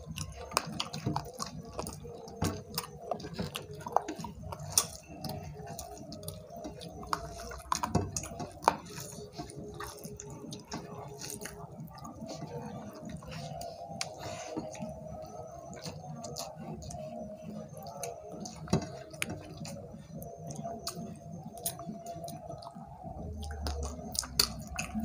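Chewing and wet mouth smacks of two people eating rice and chicken curry with their hands, with many scattered short sharp clicks.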